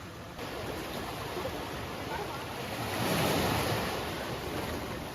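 Ocean waves washing in, one surge swelling louder about three seconds in, with some wind on the microphone.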